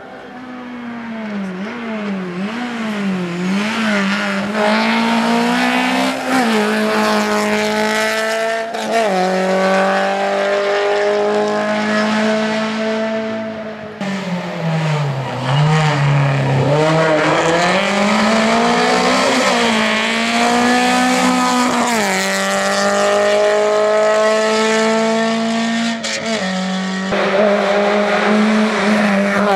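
Skoda Favorit rally car's engine revving hard, its pitch climbing under throttle and dropping sharply at each gear change, with one longer dip and climb through a slow section. It grows louder over the first few seconds.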